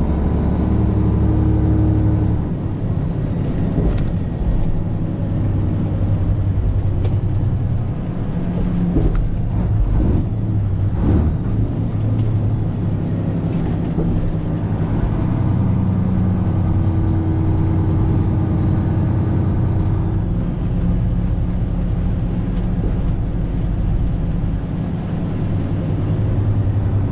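Semi truck's Detroit Diesel 12.7-litre engine running steadily at highway speed, heard inside the cab, with a few short knocks and rattles.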